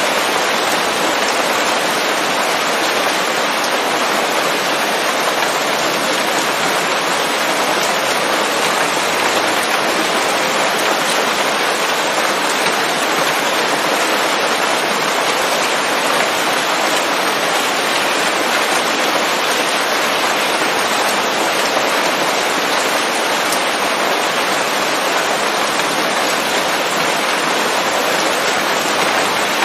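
Steady rain falling on forest leaves: an even, unbroken hiss of many drops, with no thunder.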